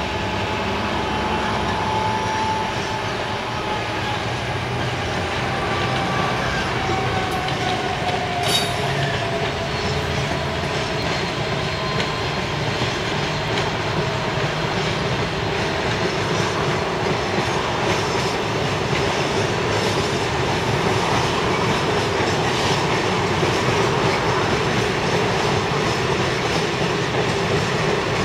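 Class 66 diesel-electric locomotive, with its two-stroke V12 engine, hauling a train of empty steel-coil wagons past: a steady engine note under the rumble and clatter of the wagons' wheels on the rails. A thin wheel squeal slides down in pitch over the first ten seconds or so, and a single sharp clank comes about eight seconds in.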